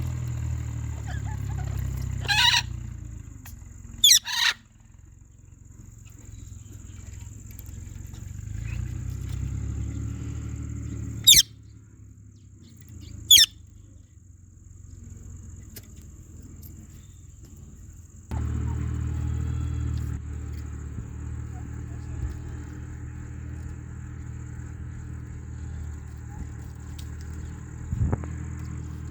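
Parrot squawking: four loud, short screeches, two about two and four seconds in and two more around eleven and thirteen seconds. Under them runs a low steady rumble that grows louder about eighteen seconds in, with a faint steady high whine.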